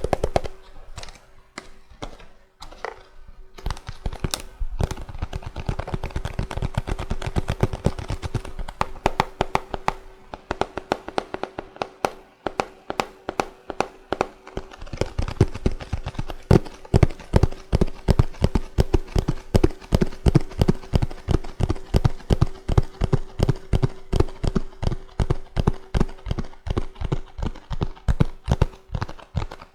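Fingers tapping on a small cardboard box, a trimmer's packaging. The tapping comes in quick, uneven flurries at first, then settles about halfway into an even beat of three to four taps a second.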